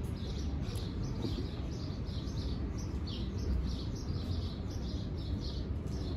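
Birds chirping, many short high chirps repeating several times a second, over a low steady background rumble.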